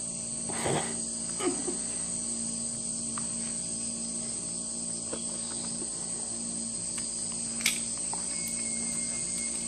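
Steady high-pitched chirring of insects, with a few soft rustles and a sharp click near the end.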